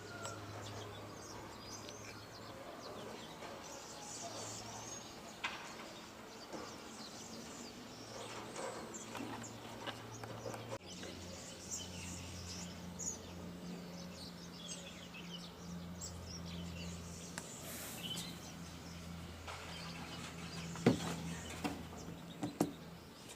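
Small birds chirping and twittering on and off over a low, steady hum. A few sharp clicks stand out, the loudest about 21 seconds in.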